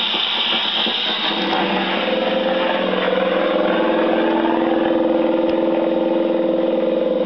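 Old gramophone record playing, its opening aeroplane sound effect a steady engine-like drone that comes in about two seconds in over heavy surface hiss.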